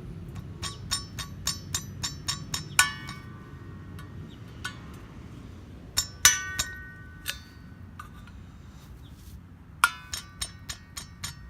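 Light hammer strikes on steel, each ringing briefly, in three quick bursts of several taps, driving at a rivet in the blade's handle.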